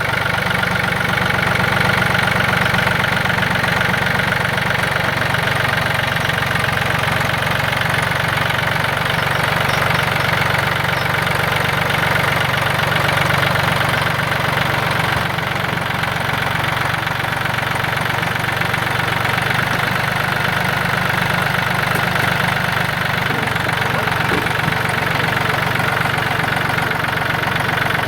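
Tractor engine running steadily at a constant speed, loud and close.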